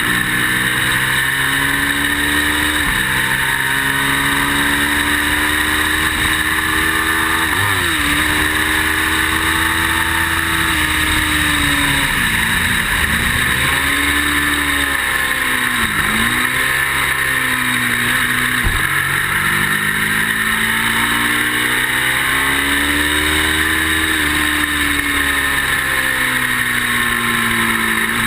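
Ducati V-twin sport motorcycle engine at full track pace, revving up through the gears and dropping sharply several times on shifts and braking into corners, over a steady rush of wind noise.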